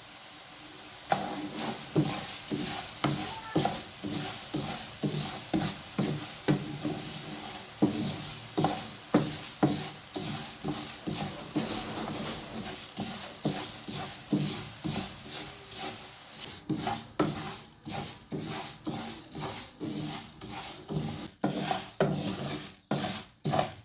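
Dry grains or legumes being stirred and turned in a hot pan, in quick scraping strokes about two a second over a faint sizzle, as they are roasted for porridge flour.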